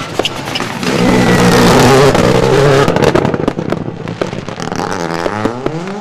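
Rally car's turbocharged engine running hard as it passes close by, loudest about a second to three seconds in, with sharp cracks and pops. Near the end the engine note climbs as the car accelerates.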